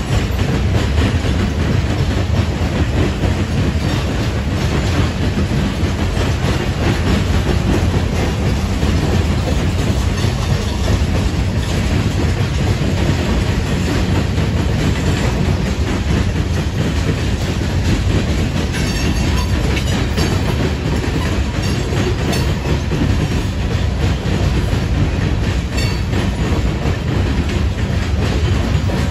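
A mixed freight train of covered hoppers, tank cars and boxcars rolling past: a steady, loud rumble with the wheels clacking over the rail joints.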